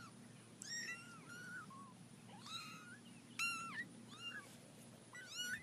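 A cat meowing faintly, about six short, high-pitched mews in a row with brief gaps between them.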